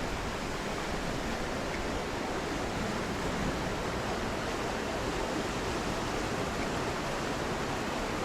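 Fast, high creek water rushing steadily, the current swollen after a hurricane.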